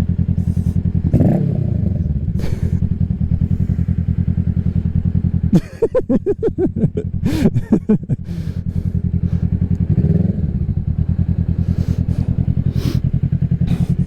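Kawasaki Ninja 650 parallel-twin engine running at low revs through an aftermarket M4 full exhaust, with brief rises in pitch about a second in and again near ten seconds. In the middle the engine note turns uneven and pulsing for a couple of seconds.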